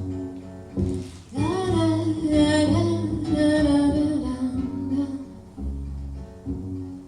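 Live band playing an instrumental break between verses of a song: guitar backing with a melodic lead line that slides up into a held note about a second and a half in.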